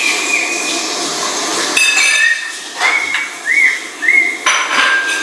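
Bird whistling: several short clear whistled notes, three of them quick rising-then-falling notes in a row in the second half, over a busy background hiss.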